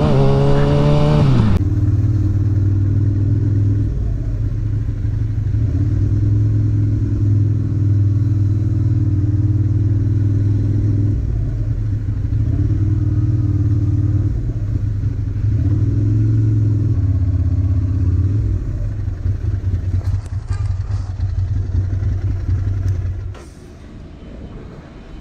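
A motorcycle engine falls in pitch as it comes off the throttle. Another motorcycle engine then runs steadily for about twenty seconds, rising and falling slightly with the throttle, before it drops away suddenly near the end.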